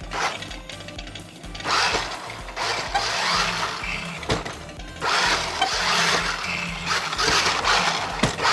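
Background music, with the small electric motors of a New Bright Rhinomite RC monster truck whirring in several surges of a second or so each.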